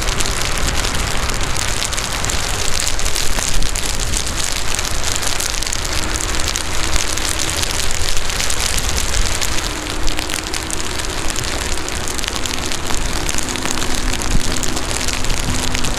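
Heavy rain pattering on the microphone and the rider's gear, a dense crackle of drop hits over a low wind rumble, during a ride on an electric unicycle. A faint steady hum underneath shifts pitch a few times.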